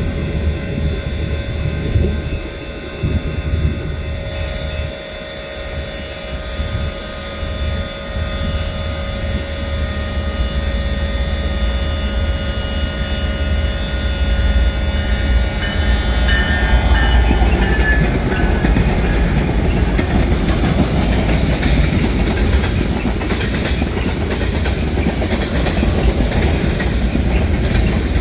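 Train passing on the tracks, its cars giving a heavy low rumble and a clickety-clack of wheels over rail joints. A steady high-pitched whine runs through the first half and fades out about two-thirds of the way in.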